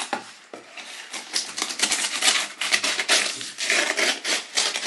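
Packaging being opened by hand: rapid, irregular crinkling and crackling of plastic and cardboard.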